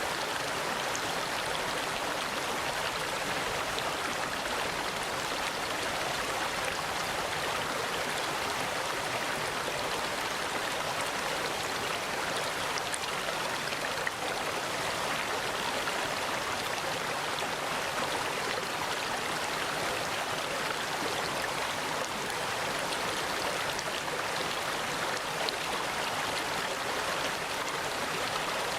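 Mountain valley stream flowing steadily over rocks, a constant even rush of water.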